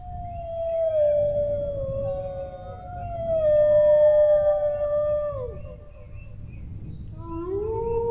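Dog howling: long drawn-out howls that slide slowly down in pitch, two voices overlapping for a stretch, the howl trailing off with falling tails about five and a half seconds in before a new howl rises in near the end.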